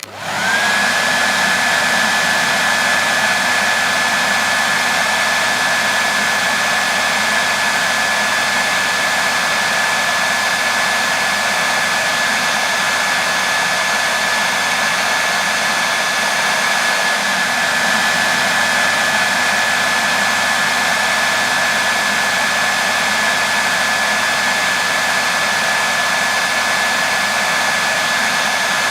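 Hair dryer running steadily: a dense rush of blown air with a steady high whine from its motor and fan. The whine rises briefly in the first moment as it comes up to speed, then holds an even pitch.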